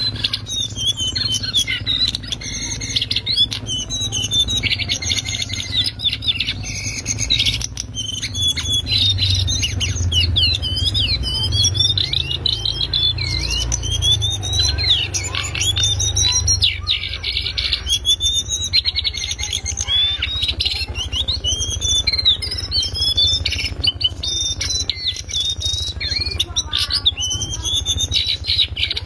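Lesser shortwing (cingcoang coklat) singing a fast, unbroken twittering song of rapid high chatter and quick whistled glides, over a steady low hum.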